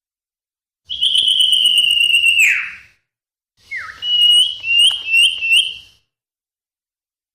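Sirpu (sirdung) bird singing clear whistles: one long slightly falling note that drops away at the end, then after a pause a short falling note and four quick rising whistles.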